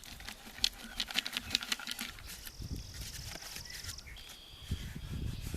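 A quick run of clicks and taps from a dry gourd being handled and worked with a wire. Then a songbird gives a rapid high trill for about a second and a half, followed by a shorter, lower note.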